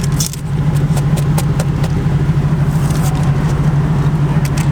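A motor running steadily with a low, even hum, with a scatter of sharp clicks and ticks over it.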